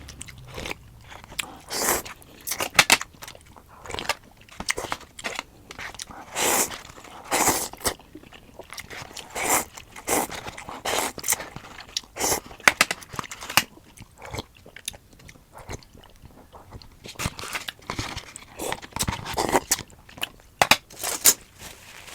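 A person biting and chewing crunchy food in irregular clusters of loud crunches, with quieter chewing between them.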